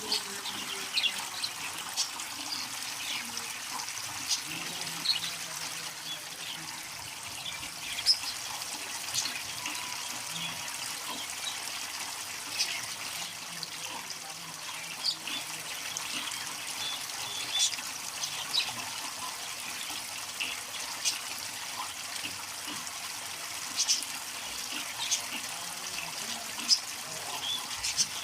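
Water trickling steadily from a homemade bird shower fed by a small cooler pump. Frequent short, high ticks and splashes are scattered through the trickle.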